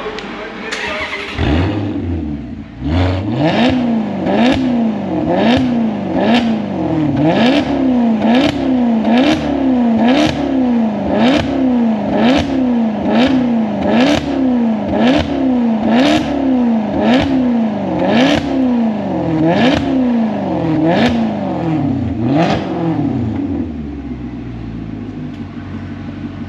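Maserati GranTurismo 4.7-litre V8 through a performance exhaust, revved again and again in quick blips, roughly one a second, each rising and falling back. Near the end it settles into a steady idle.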